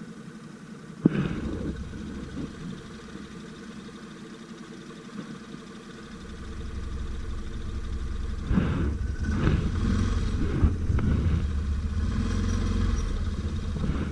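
Stels Guepard 850 ATV engine running off-road, with a sharp knock about a second in. The engine then revs up and grows louder from about halfway through, with rattling knocks.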